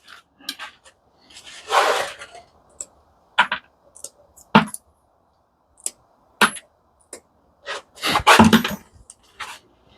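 Irregular clinks, knocks and a brief scrape of metal parts from a dismantled industrial coffee machine being handled, with a louder clatter near the end.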